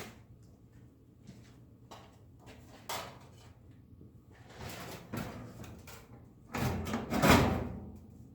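Workshop handling noises: a few light knocks, then a louder sliding scrape lasting about a second and a half, about seven seconds in.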